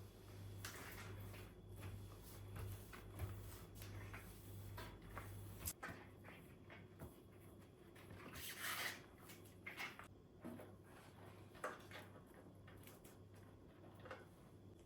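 Faint household handling noises: scattered light clicks, knocks and rustles. Under them runs a steady low hum that cuts off about six seconds in.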